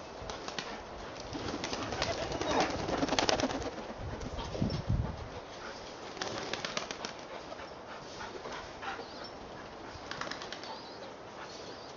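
A pigeon flapping its wings in several fluttering bursts of rapid wing beats, the strongest about two to three seconds in and again about six seconds in.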